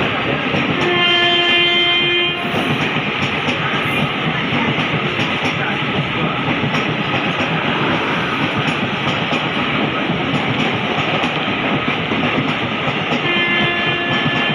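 Passenger train of ICF coaches running past at speed, its wheels clattering steadily over rail joints. A train horn sounds one steady note twice: for about a second and a half starting about a second in, and again from near the end.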